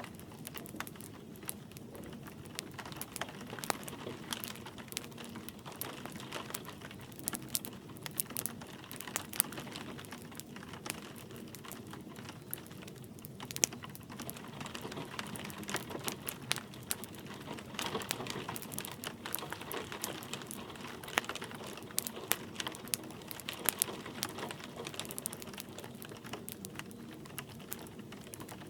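Wood fire crackling with frequent irregular sharp pops, over a steady hiss of light rain.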